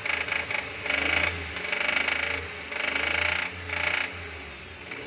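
Suzuki F6A three-cylinder engine revved in a series of short bursts, each swell bringing a pulsing knock and rattle: the engine idles smoothly but knocks under acceleration.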